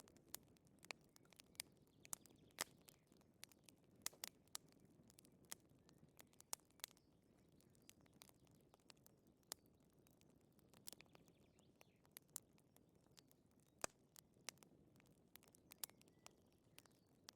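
Wood fire crackling softly, with sharp pops at irregular intervals over a low, steady rustle of flame.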